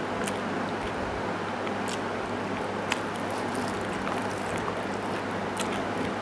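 A few faint, wet clicks of someone chewing stew and rice, over a steady hiss and low hum.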